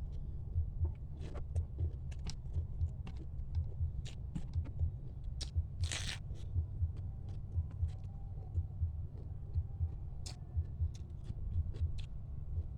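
Close-up eating of crab: dull low thuds of chewing with small clicks and crackles from the shell and food, and two short breathy bursts, one at the start and one about six seconds in.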